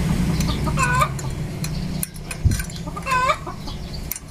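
A chicken calling twice, about a second in and again about three seconds in. Under it a low steady hum stops about two seconds in, followed by a short low thump.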